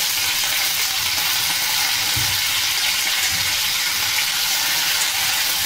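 Freshly washed mixed plant shoots sizzling in hot ghee with cumin, a steady hiss as the wet leaves start to wilt.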